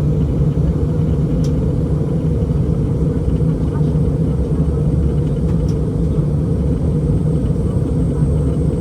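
Steady cabin noise inside an Airbus A321 in flight: a constant low rumble of the jet engines and airflow.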